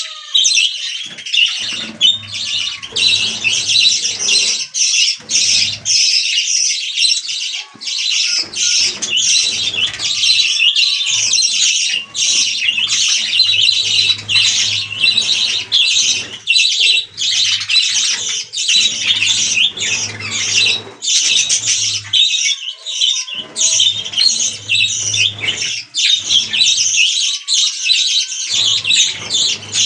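Several budgerigars chattering: a continuous stream of rapid, high chirps and warbles.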